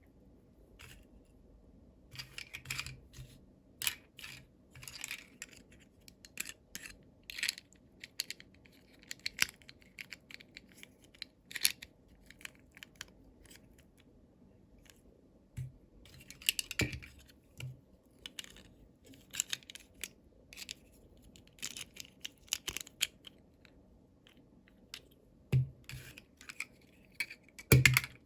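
Plastic toy packaging and small miniature pieces being handled during an unboxing: irregular clicks, taps and crinkles, in clusters with a couple of short pauses.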